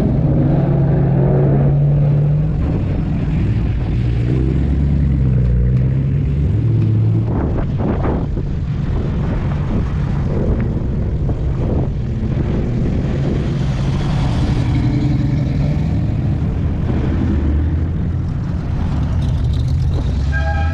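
Engines of classic American cars running as they drive slowly past, one vehicle after another, with the low engine note shifting as each goes by.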